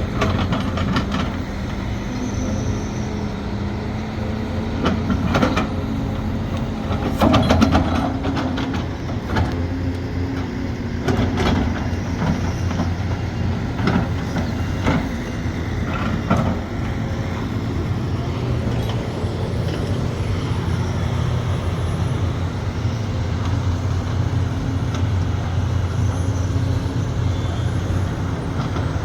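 Sumitomo SH370LHD-6 excavator's diesel engine running steadily, with a run of sharp knocks and clanks from the working machine in the first half.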